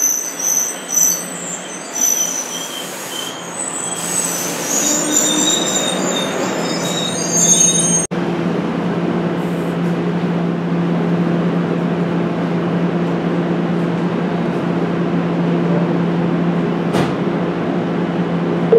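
NJ Transit bilevel commuter train of Multilevel cars rolling into the platform with high-pitched squealing from its wheels and brakes as it slows. About eight seconds in the sound cuts to the train standing still, with a steady low hum from its onboard equipment.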